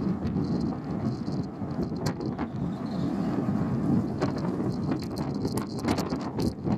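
Steady low rumble with scattered sharp clicks and knocks, from the Ise Bay car ferry Isemaru.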